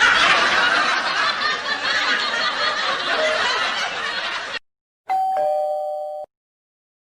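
A dense, noisy sound-effect clip lasts about four and a half seconds and cuts off abruptly. It is followed by a two-note ding-dong doorbell chime, a higher note then a lower one.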